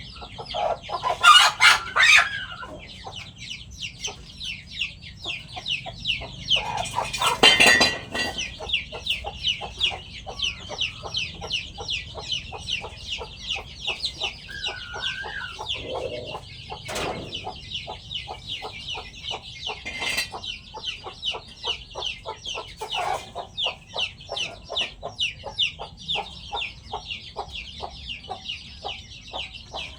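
Free-range chickens clucking as they feed, with a rooster crowing. There are louder calls about a second in and again about seven seconds in, over a steady rapid ticking that runs throughout.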